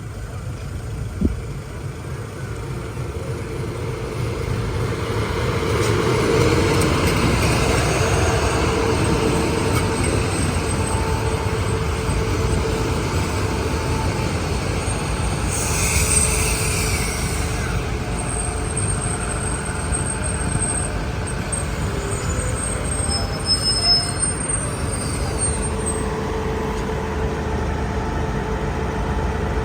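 Passenger train pulling into a station: a deep rolling rumble that grows over the first few seconds and then holds steady, with thin high brake squeals in the second half as it slows.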